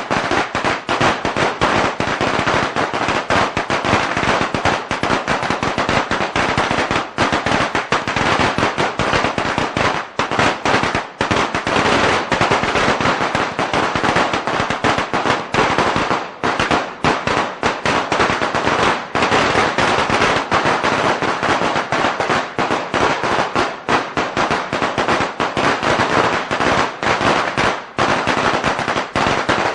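A long string of firecrackers going off in a dense, unbroken rapid crackle of sharp bangs.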